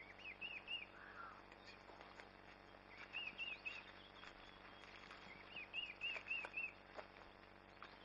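A bird calling three times, each call a quick run of about four short, arched chirps, over faint footsteps on a dry dirt trail.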